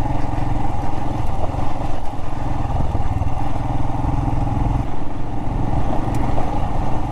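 Royal Enfield Himalayan's single-cylinder engine running steadily under way on a desert gravel trail, with no marked revving.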